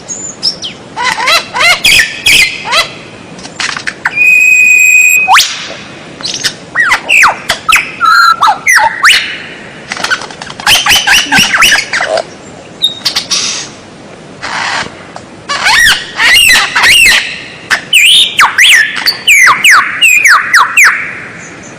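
Songbird singing a loud, varied song: fast runs of whistles and chirps, many sweeping sharply down in pitch, with a held whistle about four seconds in and brief pauses between phrases.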